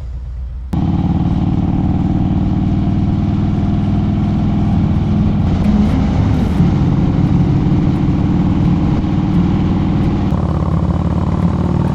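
Harley-Davidson V-twin motorcycle engine running steadily under way, with wind noise over it. It comes in suddenly less than a second in, after a quieter low hum.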